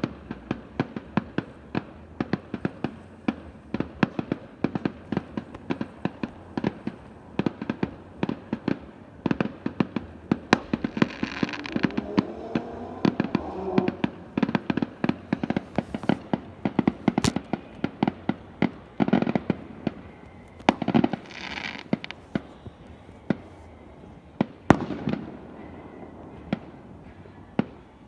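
Fireworks display: a rapid, continuous barrage of sharp bangs and pops, several a second, with a few longer crackling bursts in the middle.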